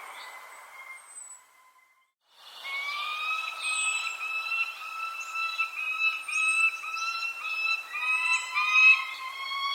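Birds calling: short high chirps and quick downward-slurred calls over a sustained, stepped whistling tone. The sound drops to near silence briefly about two seconds in, then resumes.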